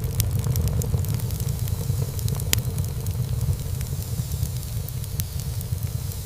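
Wood fire burning in a fireplace: a steady low rumble of flames with irregular crackles and small pops from the burning logs, one sharper pop about two and a half seconds in.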